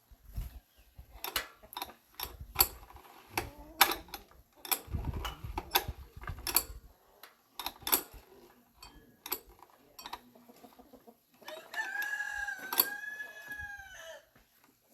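A rooster crows once, a long arched call near the end. Before it come irregular sharp knocks and clinks.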